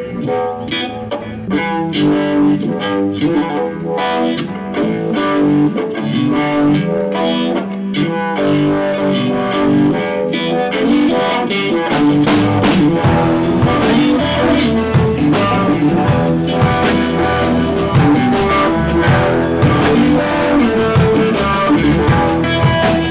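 Guitar playing a blues lick on its own, then the band comes in with drums about halfway through and the music fills out.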